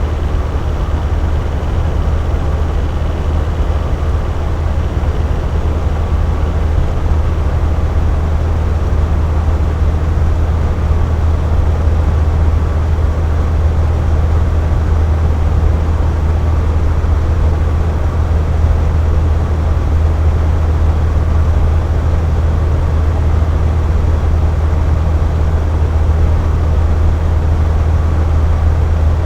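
Box fan running steadily at one speed: an even rush of air over a strong, deep motor hum.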